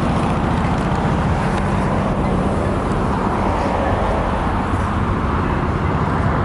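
Steady road noise of a car driving along: a continuous low tyre and engine rumble.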